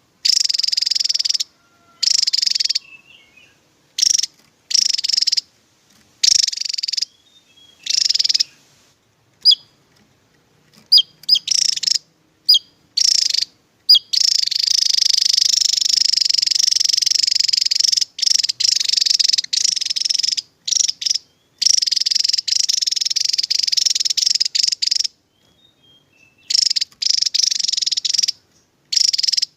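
Javan tesia calling in rapid high-pitched trills, delivered in bursts that start and stop abruptly, mostly a second or so long, with a longer run of about four seconds in the middle and a few short sharp chirps between bursts.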